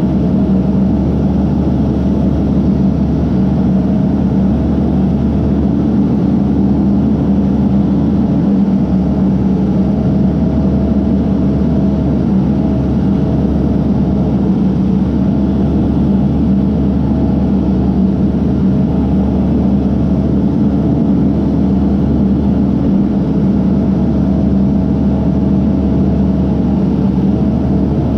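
Case backhoe's diesel engine running steadily, a constant drone with a faint steady whine over it.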